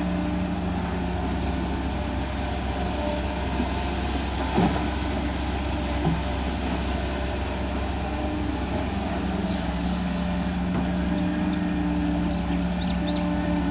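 Kobelco SK140 excavator's diesel engine running steadily under working load while digging, with a couple of short knocks about four and a half and six seconds in.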